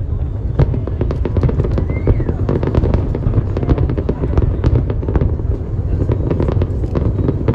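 Aerial fireworks going off continuously: a dense run of sharp bangs and crackles, many per second, over a steady low rumble of booms.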